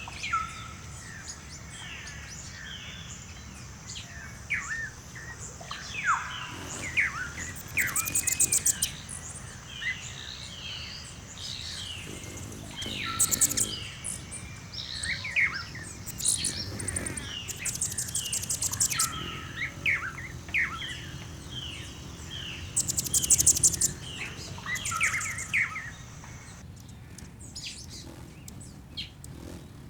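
A chorus of mixed birds chirping and calling, with short whistled notes and several fast, high trills. This is a bird-sound ambience track rather than calls tied to the hummingbird on screen.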